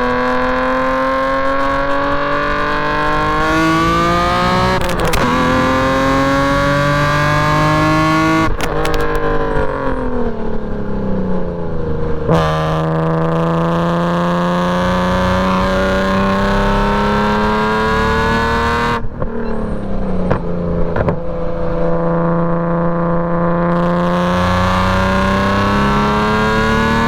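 BMW E46 M3's straight-piped inline-six under hard track driving: revs climb through a couple of quick upshifts, fall away for a long stretch as the car slows, jump up sharply on a downshift, then climb again with another dip and pull-up later on.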